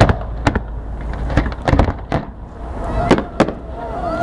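Fireworks going off: a string of sharp bangs and pops, irregularly spaced about half a second to a second apart.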